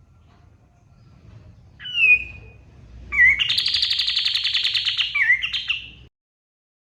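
Kapas tembak songbird singing: a short whistled call about two seconds in, then a long, rapid, chattering run of song lasting about three seconds that cuts off abruptly.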